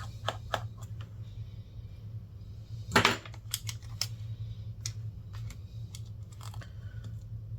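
Small tools clicking and tapping on the opened iPad's internals: scattered light clicks, with a louder scrape-and-click about three seconds in. A steady low hum runs underneath.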